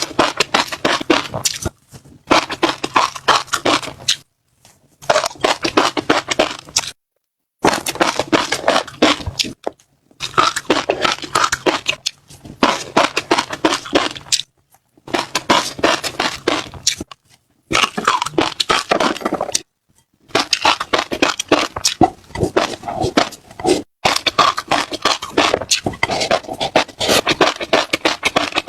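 Close-miked chewing of passion fruit seeds, a dense crunchy crackle of seeds cracking between the teeth. It comes in runs of about two seconds broken by short silences.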